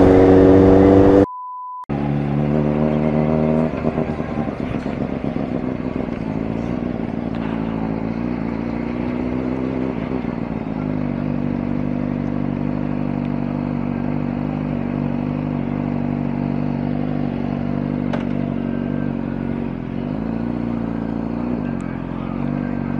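Honda sport bike's engine running at low speed, its revs easing off a few seconds in, then rising and falling gently while the bike rolls slowly. Just over a second in there is a brief steady beep at an edit cut.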